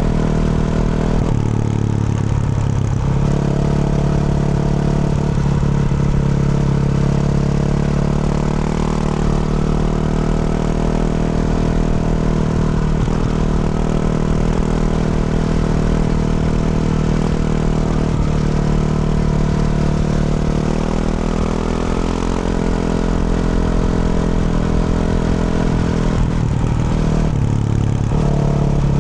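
A 2024 Yamaha YZ450F's 450 cc single-cylinder four-stroke engine, fitted with a Yoshimura RS-12 exhaust, running steadily under throttle while being ridden. Its note shifts about two seconds in and again near the end.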